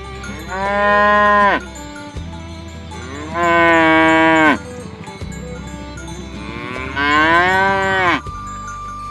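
Cow mooing three times, long calls of about a second or more each, spaced a couple of seconds apart, each falling in pitch as it ends.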